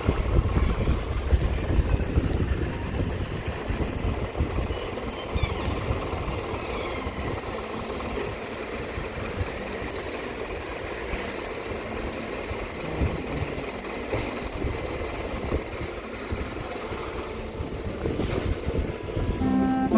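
Motor vehicle running, a steady rumble of engine and road noise with wind on the microphone.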